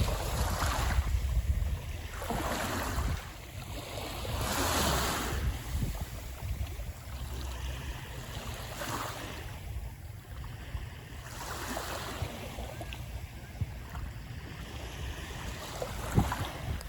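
Small waves washing onto the beach every few seconds, each a brief hiss, with wind buffeting the microphone as a steady low rumble.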